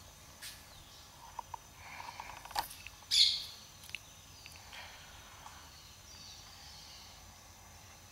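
Scattered short bird chirps over a faint steady high hiss, with one sharp, louder sound about three seconds in.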